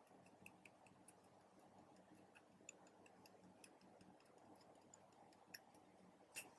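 Near silence with faint, irregular little clicks, typical of sticky slime being stirred or pressed, and one slightly louder click near the end.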